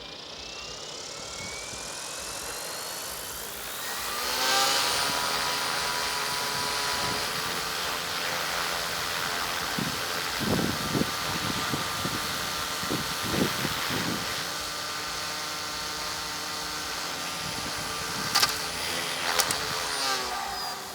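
Radio-controlled model airplane's motor throttling up with a rising whine over the first few seconds, then running steadily at high power, with its pitch falling away near the end. A couple of sharp knocks come near the end.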